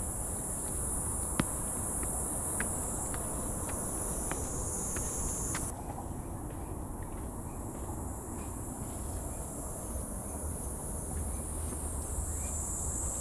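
Dense, high-pitched, steady chorus of insects in the forest. Part of it cuts off abruptly about halfway through and comes back near the end.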